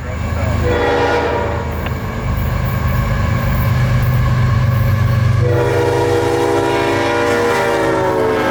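Diesel freight locomotive passing with its engine rumbling, sounding its multi-tone horn: a short blast about half a second in, then a long blast from about five seconds in.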